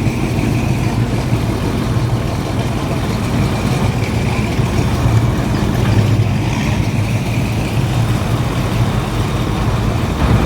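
A car engine running steadily with a low, even sound that does not rise or fall.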